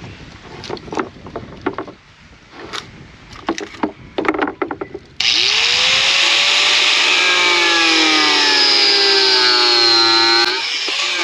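Wood being knocked and shifted about, then an electric power saw starts up and cuts wood. Its motor whine sinks slowly in pitch as the blade takes the load and falls away near the end.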